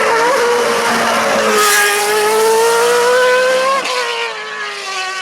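Hill climb race car engine at high revs under hard acceleration, its pitch climbing steadily, then dropping abruptly about four seconds in as the sound grows quieter.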